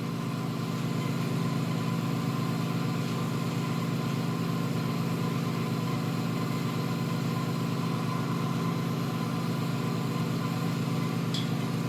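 Steady machine hum from shop equipment running continuously, with a faint tick about eleven seconds in.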